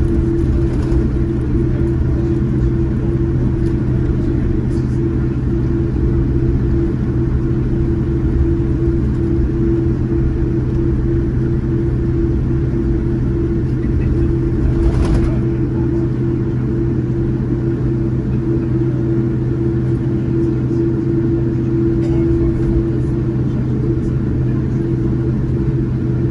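Steady cabin noise inside a Boeing 787-9 with GEnx engines: an even low rumble under a constant hum, with no rise or fall in level.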